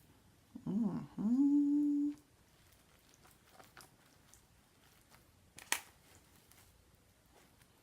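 A person humming a closed-mouth 'mmm' while eating, the pitch wavering and then held on one note for about a second. A single sharp click comes a few seconds later.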